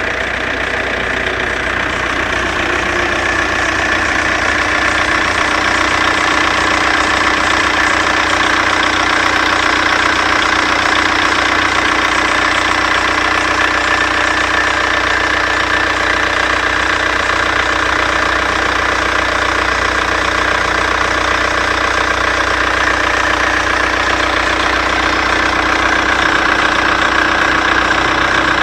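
Seat Córdoba engine idling steadily with a strange steady noise from the engine bay, which the owner says comes from the alternator belt.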